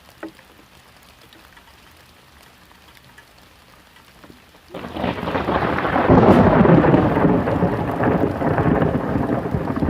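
Faint rain in a storm, then about halfway through a sudden loud clap of thunder that goes on rumbling for several seconds.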